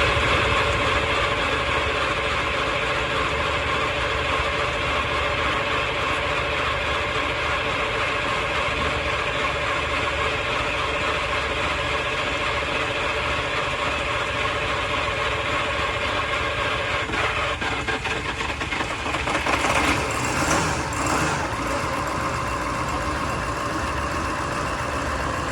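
Freshly rebuilt 12-litre Mercedes-Benz OM501 V8 diesel running steadily at idle, with a brief louder, uneven patch about twenty seconds in.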